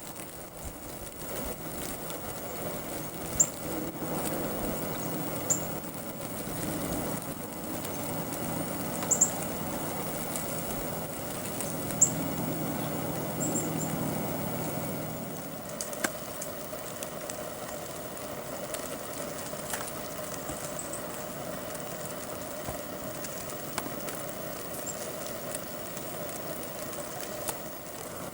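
Cedar waxwings giving scattered high, thin, lisping calls every few seconds, over a steady background hum.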